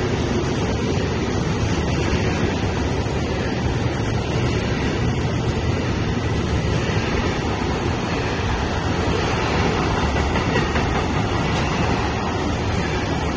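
Intermodal freight train of pocket wagons loaded with semitrailers and containers rolling past at speed: a steady rumble and clatter of wheels on rail.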